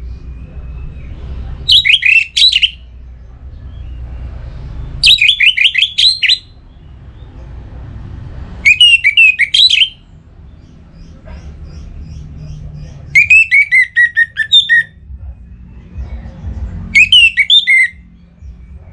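Orange-headed thrush (anis merah) singing: five short phrases of rapid, sliding notes, each about a second long and spaced a few seconds apart, over a low steady rumble.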